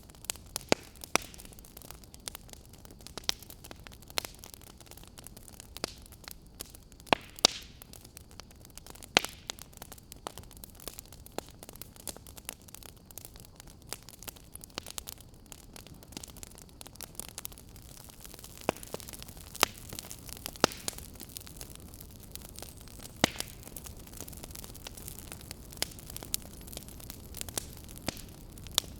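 Wood fire crackling: irregular sharp pops and snaps over a low, steady hiss, a few louder snaps standing out.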